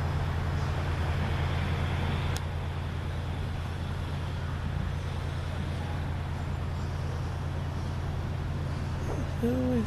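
Class 139 Parry People Mover railcar running at the platform, a steady low engine hum over track and station noise, with one sharp click a little over two seconds in.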